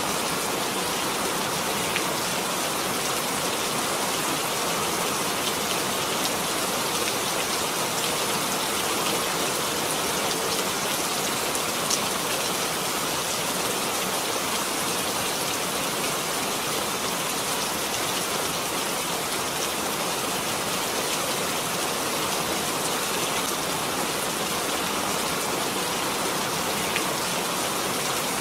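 Steady rain falling, an even hiss with the faint ticks of individual drops hitting a surface.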